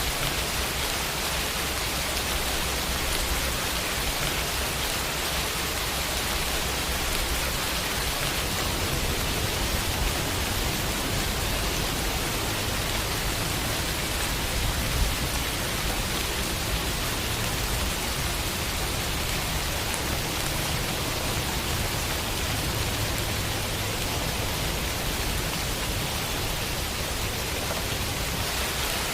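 Steady rain falling on a window, an even hiss of raindrops with no breaks.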